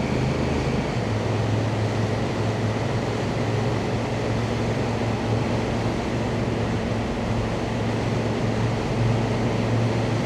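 Honda Africa Twin's parallel-twin engine running at a steady cruise, a constant low drone under wind and road noise.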